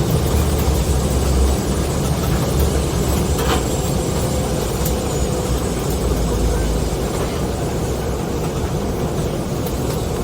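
Cabin noise of a jet airliner on approach to land: a steady low rumble of engines and air rushing past the fuselage, with a brief click about three and a half seconds in.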